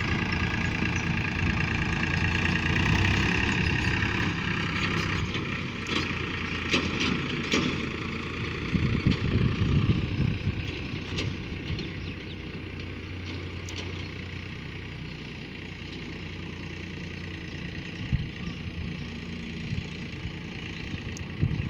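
Tractor engine running steadily with a low, even hum. It is loudest over roughly the first ten seconds, then grows gradually quieter, and a few short knocks and rattles come through around the middle.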